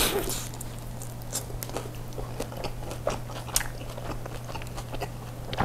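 A bite into a beef Turkish kebab wrap right at the start, then close-miked chewing with scattered short wet clicks and smacks, over a faint steady hum.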